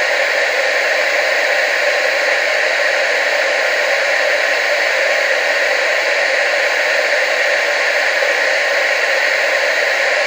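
Steady hiss of TV static, an even rushing noise centred in the middle and upper range with little bass, unchanging throughout.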